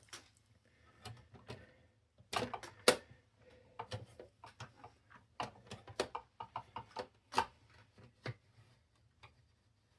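Irregular small clicks and knocks of plastic parts and screws being handled during disassembly of a CD changer, a few louder taps among them.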